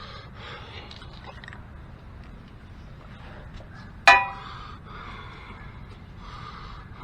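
A single sharp metallic clank about four seconds in, ringing briefly, like a metal tool striking metal, over faint background noise.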